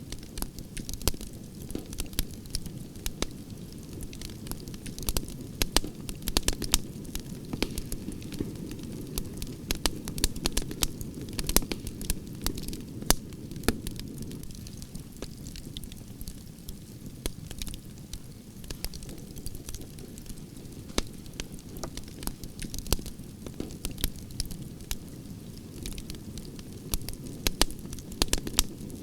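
Campfire of burning branches crackling, with frequent irregular sharp pops and snaps over a steady low rush of flame.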